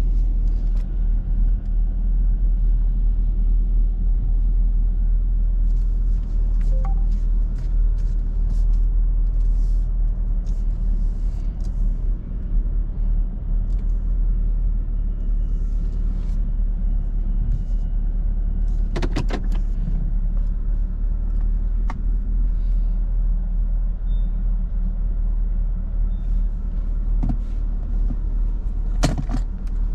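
Steady low rumble of a 2021 Camaro 2SS's 6.2-litre V8 running, with scattered light clicks and two short louder noises, one about two-thirds through and one near the end.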